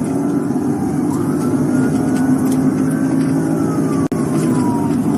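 Police cruiser running at high speed in a pursuit: a steady engine and road drone heard inside the cabin, with the siren wailing behind it, slowly rising and then falling. The sound cuts out for an instant about four seconds in.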